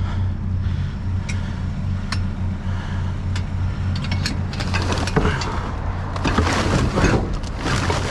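A vehicle engine idling steadily, with a few sharp clicks in the first half, then rustling and clattering of things being handled and moved around from about halfway on.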